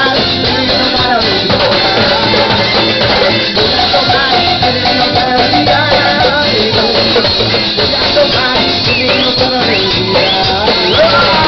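A Latin band playing dance music, with drum kit and hand percussion keeping a steady beat under a melody line.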